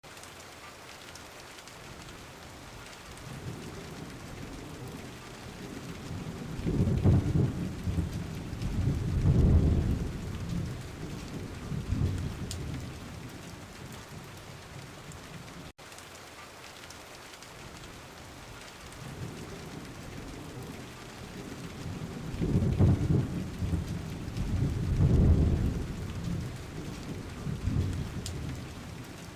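Steady rain with thunder, two long low rumbles of thunder that swell and die away, one before and one after a brief dropout about halfway.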